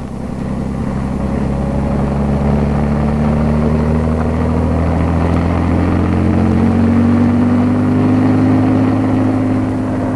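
Piston-engined military helicopter running, a steady engine drone that swells over the first couple of seconds and rises slowly in pitch.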